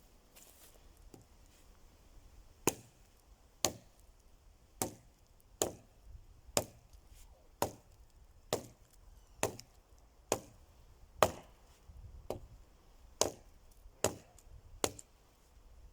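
Wood being chopped: a steady series of about fourteen sharp blows, roughly one a second, starting nearly three seconds in.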